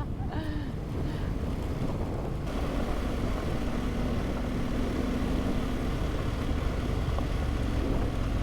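Adventure motorcycle engine running steadily while riding a loose rocky dirt road, with wind buffeting the camera microphone.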